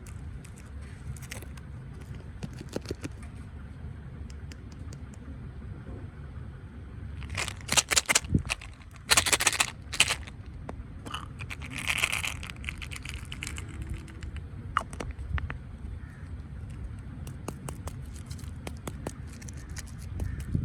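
Scraping, crackling handling noises over a steady low rumble, with a louder run of them about a third of the way in and again shortly after.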